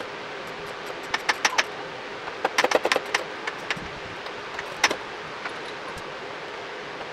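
Light clicks and rattles of small parts and tools being handled during motorcycle bodywork refitting, in two quick clusters a second or two in and another single louder click near the five-second mark, over a steady background hiss.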